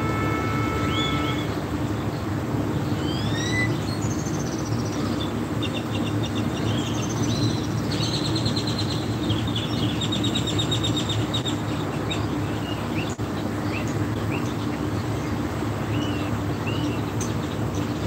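Birds chirping, with short rising calls and several quick trills, over a steady low hum.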